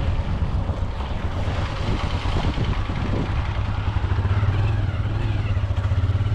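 Motor vehicle engine running at a steady pitch on the move, with road and wind noise.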